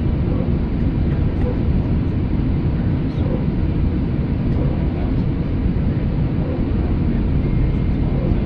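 Steady low rumble inside the cabin of an Airbus A319 sitting on the ground with its engines and air systems running, waiting short of the gate.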